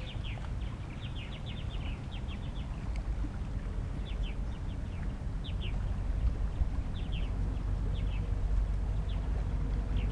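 Small birds calling in quick clusters of short, high chirps, repeated every second or so, with wind rumbling on the microphone underneath.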